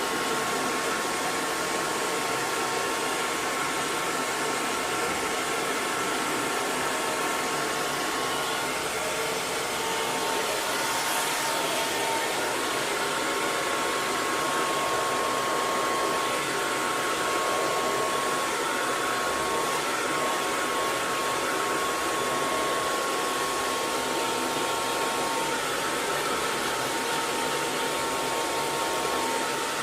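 Hair dryer running steadily: an even rush of blown air with a faint motor whine, used as white noise.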